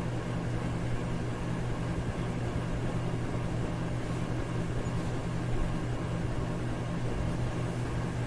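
Electric fan running steadily: an even rush of air over a low hum.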